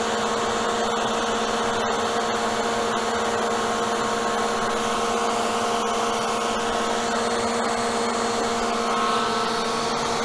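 Electric hot-air blower, such as a heat gun or hair dryer, running steadily to dry fresh paint on a bowl, over a steady motor hum.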